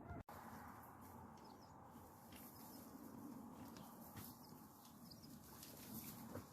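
Near silence, with a few faint, brief high bird chirps.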